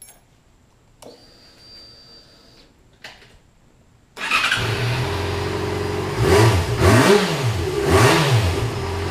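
Yamaha FZ6R's 600 cc inline-four on its stock exhaust: a faint whir about a second in, then the engine starts about four seconds in and idles. It is revved three times in quick succession, then settles back to idle, a sound the owner calls pretty wimpy.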